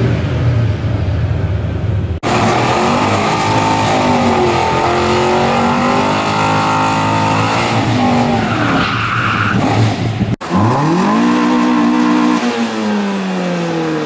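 Car engines revving hard with tyre squeal during burnouts, broken by two sudden cuts. The longest stretch, from about two seconds in to about ten, is a Chevy-engined Datsun Z car doing a burnout, its engine note climbing and falling. After the second cut another car's engine revs up, holds, then falls away near the end.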